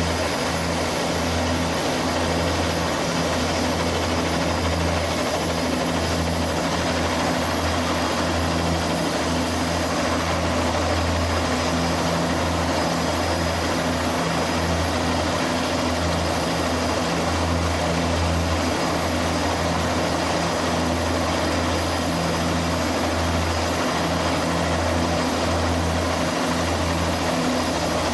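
Turbine helicopter running steadily close by: a constant low rotor drone with a thin, steady high turbine whine above it.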